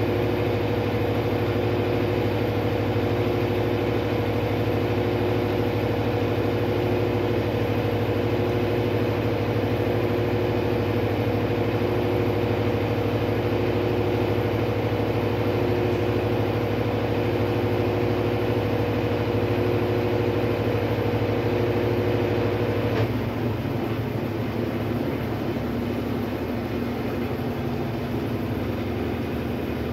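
Brastemp Sexto Sentido 8 kg washing machine running with a steady motor hum, one tone in it pulsing about every two seconds. About three quarters of the way through, the higher tone cuts out, a lower tone takes over and the sound gets a little quieter as the machine changes its running.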